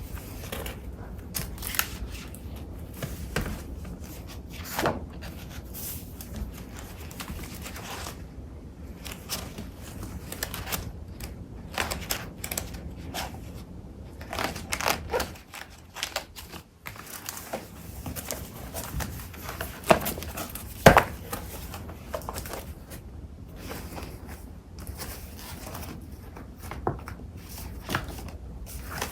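Paper crafting supplies being sorted by hand: irregular rustling and crinkling of paper and packaging, with frequent short taps and clicks. The two loudest sharp sounds come about two-thirds of the way through.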